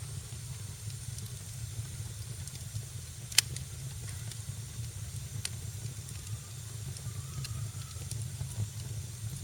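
Fire in a fireplace crackling: a steady low rumble and hiss with scattered sharp pops, one loud pop about three and a half seconds in.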